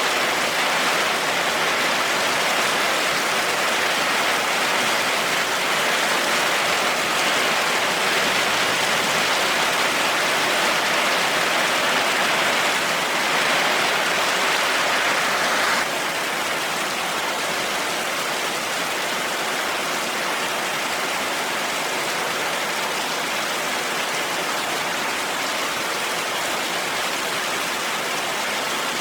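Heavy rain falling steadily in a dense, even hiss. About halfway through it drops abruptly to a slightly quieter, softer hiss.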